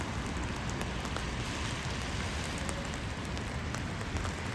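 Steady rain falling, with scattered faint drip ticks over a low rumble.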